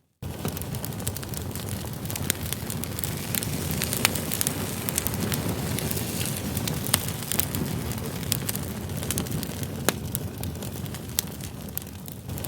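Campfire of firewood logs burning: a steady low rumble with frequent sharp crackles and pops, after a brief silent gap at the very start.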